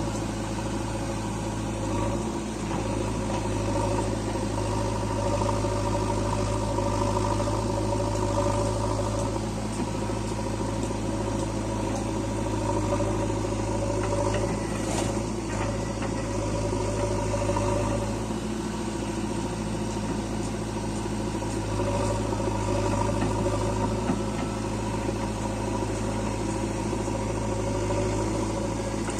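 Diesel engine of heavy earth-moving or farm machinery running steadily at a low, even pace, with slight rises and falls in load.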